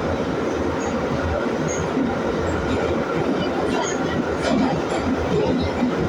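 81-502 metro train running at speed between stations: a steady rumble of wheels on rail with a clickety-clack, and short high wheel squeals now and then.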